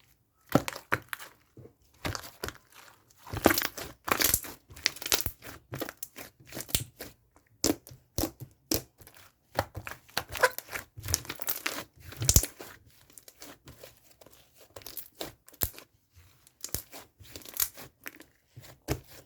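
Crinkly material being squeezed and rubbed by hand, giving quick, irregular bursts of crackling and crinkling.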